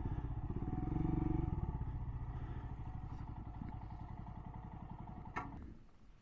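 Motorcycle engine running at low revs with an even pulsing beat that slowly fades, then a click and the engine cuts out abruptly about five and a half seconds in.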